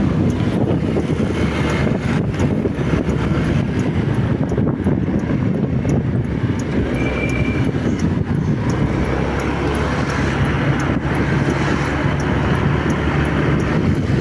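Motorcycle running steadily on the move in traffic, its engine buried in a heavy rush of wind over the microphone. A brief high tone sounds about seven seconds in.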